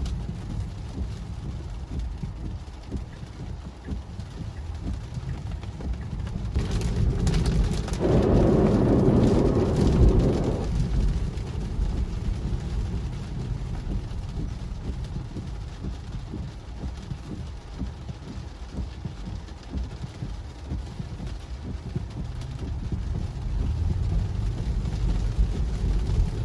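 Tesla driving on a wet road in the rain, heard from inside the cabin: a steady low rumble of tyres on wet tarmac with rain hiss. A louder rush of spray swells for a few seconds about seven to ten seconds in.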